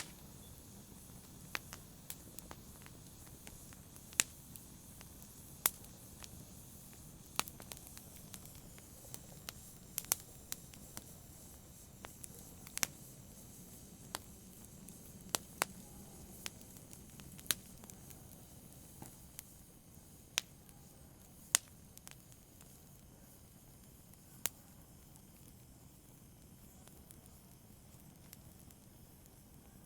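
Campfire burning: irregular sharp crackles and pops over a low steady hiss, the pops growing sparser near the end.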